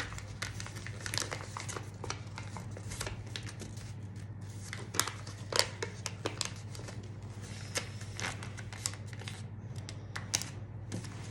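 A sheet of A4 paper rustling and crinkling as it is folded and creased by hand, with irregular sharp crackles of the paper, over a steady low hum.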